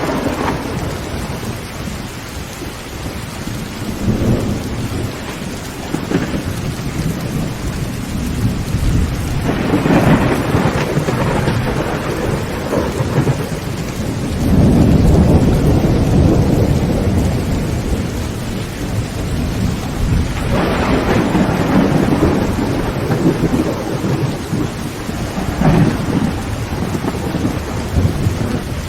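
Heavy rain falling on a tin tent roof, with thunder rumbling about six times. The longest and loudest roll comes about halfway through.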